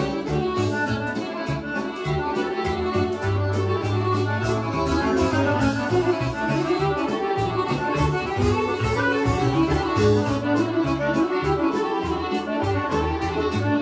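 Serbian folk orchestra with violin playing a kolo dance medley: melody over a bass line and a steady quick beat.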